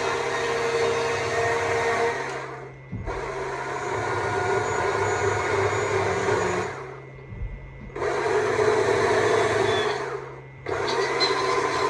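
Stihl MSA 200 C battery chainsaw running and cutting wood. Its motor drops away briefly three times between cuts.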